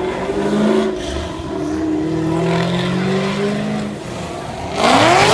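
Car engine running with a gently shifting pitch, then revving hard near the end, its pitch sweeping sharply upward.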